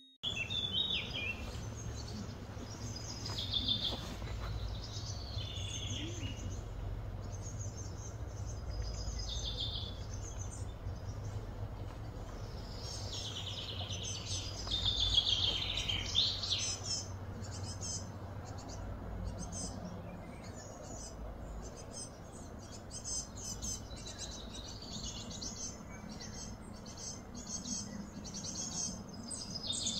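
Birds chirping and calling, short high phrases one after another, over a steady low background rumble; the loudest calls come about halfway through.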